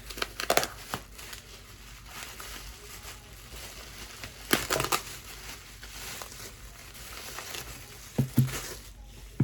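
Wrapping and packaging crinkling as a boxed item is handled and unwrapped, with a few sharp clicks of handling, about half a second in, around five seconds, and near the end.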